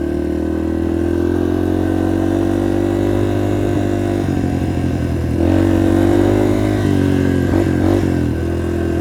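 Yamaha TT-R230 dirt bike's single-cylinder four-stroke engine running under throttle on a trail. The engine note holds steady, then changes pitch a few times as the throttle is worked.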